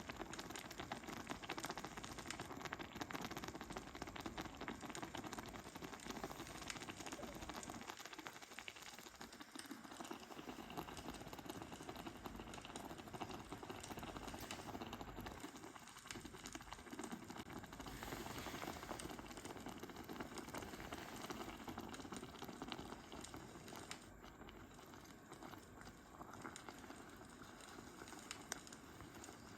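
Food cooking: a faint, steady bubbling and crackle, easing off slightly near the end.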